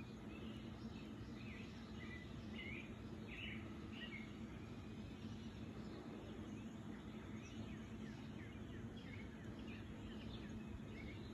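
Outdoor background noise with a steady low hum, and birds chirping faintly now and then: a run of short chirps in the first few seconds and a few more near the end.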